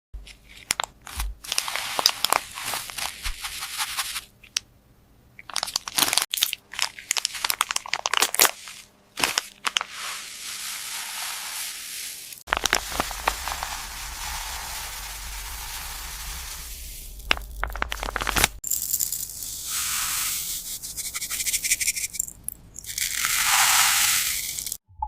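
Close-up handling noise: crinkling and rustling with many small clicks, and a steady hiss for several seconds in the middle.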